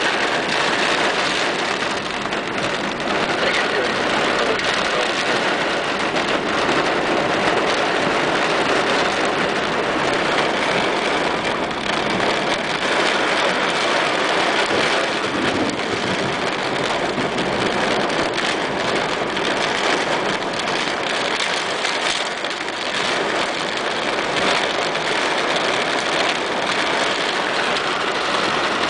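Heavy rain pouring down in a thunderstorm, heard from inside a car: a steady, dense hiss that never lets up.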